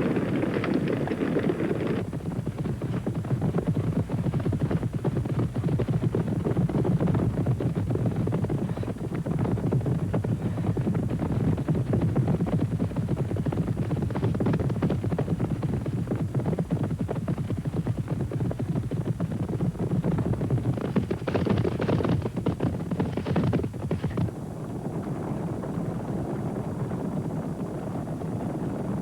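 Hooves of a wildebeest herd running, a dense, continuous drumming of many hoofbeats on the ground, easing off a little after about three quarters of the way through.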